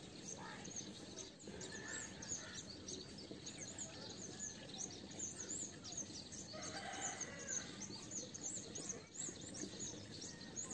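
Small birds chirping continually, with one longer, louder bird call lasting about a second around seven seconds in.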